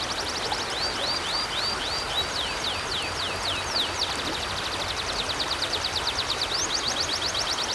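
River water flowing in a steady rush, with a bird repeating high, downward-sliding chirps in quick series over it; the chirps come faster about four seconds in.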